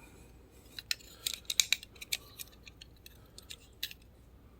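Faint, irregular small clicks and taps, about a dozen, bunched in the middle second or so, from a small die-cast toy truck being handled.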